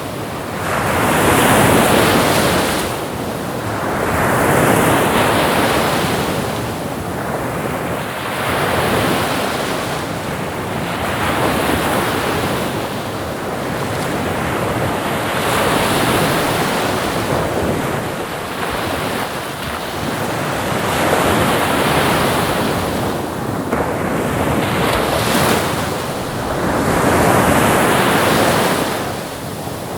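Ocean surf breaking and washing on a shore, the rush of water swelling and fading every few seconds.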